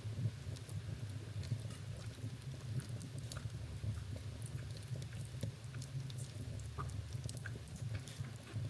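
Wood fire in a fireplace crackling: many small, irregular snaps and pops over a steady low rumble of burning.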